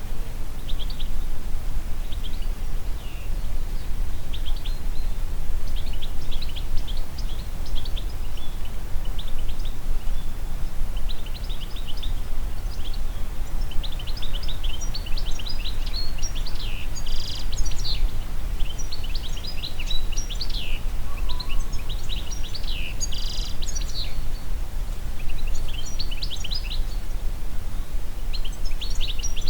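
Several wild songbirds chirping and trilling over a steady low rumble of wind. The birdsong grows busier about halfway through.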